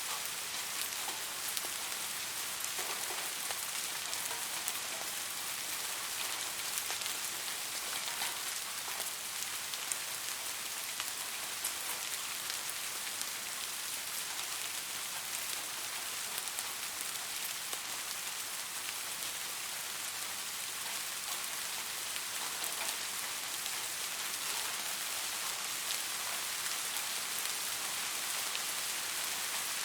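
Steady rain falling on a surface: an even hiss, dense with small drop ticks.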